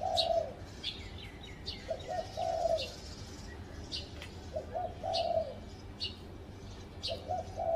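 Spotted dove cooing: a repeated phrase of two short notes followed by a longer, falling coo, given about every two and a half seconds. Short high chirps from another small bird come in between.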